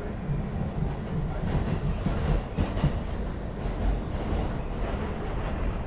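New York City subway N train running between stations, heard from inside the car: a steady low rumble with irregular knocks and clatter from the wheels on the track.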